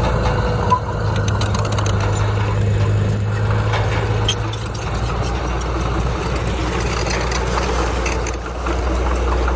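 Heavy diesel engine of earthmoving machinery running steadily, a deep drone whose lowest band thins out about halfway, with one sharp click under a second in.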